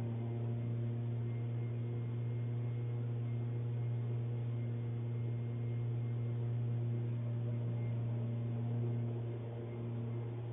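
A steady low hum with several fainter higher tones stacked above it, holding an even pitch.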